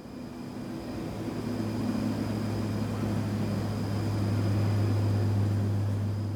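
Military aircraft passing, its engine noise a steady low hum with a thin high whine that builds to its loudest about five seconds in and then drops away.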